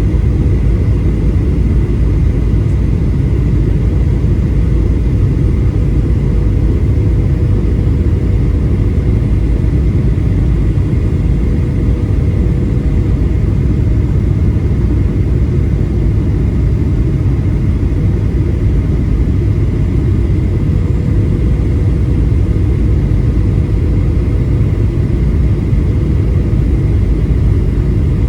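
Boeing 737-800 cabin noise in flight: a steady low rumble of the engines and rushing air, with a faint steady hum over it and no change throughout.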